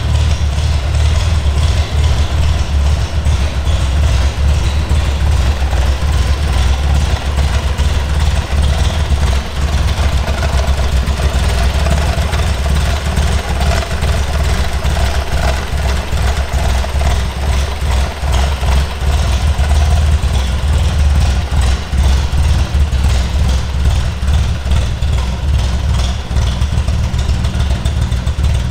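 Triumph Spitfire 4 Mk1's 1147 cc four-cylinder engine idling steadily.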